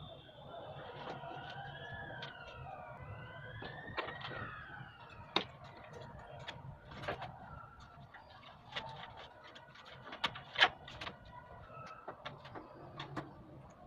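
A siren wails in the first few seconds, its pitch sweeping slowly up and down, then dies away. After it comes a run of sharp clicks and knocks, the loudest about ten and a half seconds in, from parts of a split air conditioner's indoor unit being handled and fitted.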